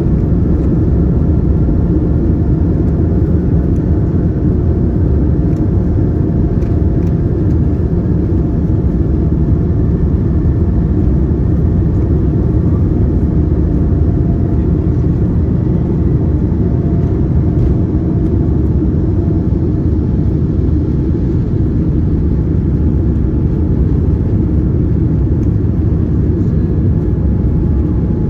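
Boeing 787-9 cabin noise: a steady, loud rumble of the jet engines and airflow with a faint steady whine above it, unchanging throughout.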